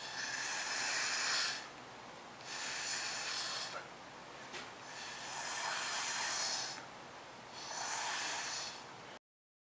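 A person blowing hard through a drinking straw in four long puffs with short pauses for breath, pushing wet acrylic paint across a tile in a Dutch pour.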